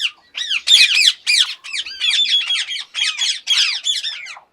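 Indian ringneck parakeets squawking: a fast, continuous run of short, harsh, high calls, several a second with brief gaps.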